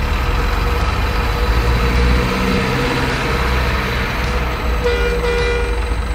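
Heavy truck engine running steadily, with a short horn toot about five seconds in.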